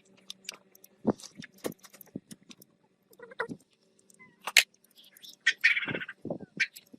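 Small metal parts and tools being handled: a string of irregular light clicks and knocks over a faint steady hum, with a short rasping burst about six seconds in.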